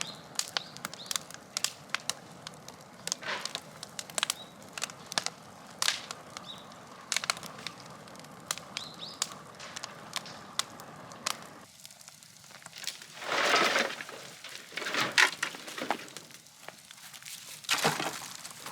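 Scrap-wood fire crackling and popping with frequent sharp snaps. About twelve seconds in, the background hiss drops and three louder, longer crunching noises follow.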